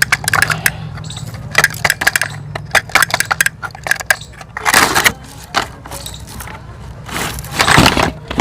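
Plastic toys clicking and clattering as they are handled, over a steady low hum, with two longer rushing, scraping stretches, one about five seconds in and one near the end.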